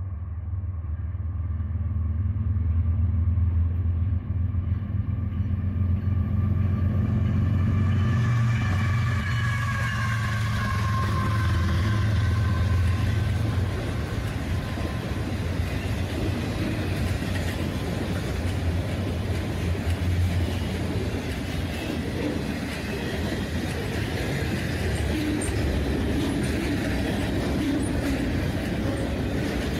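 A CN freight train passing at speed. The diesel locomotives' deep engine rumble builds over the first few seconds and falls away after about thirteen seconds. Then comes the steady rolling noise of the freight cars on the rails.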